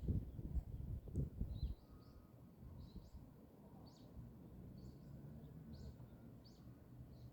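A small bird chirping, a run of short high notes repeating about once a second over faint outdoor background noise. A low rumble, like wind or handling on the microphone, fills the first two seconds and then drops away.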